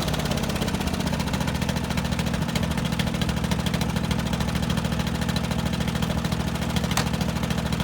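1995 John Deere 445 garden tractor's 22 hp liquid-cooled, fuel-injected Kawasaki V-twin running steadily at an even idle, with a single light click near the end.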